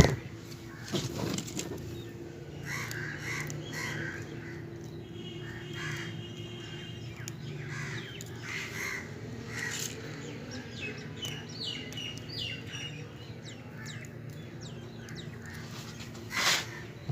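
Match heads being scraped and crumbled into powder: a run of small, irregular scratching and rustling sounds over a steady low hum.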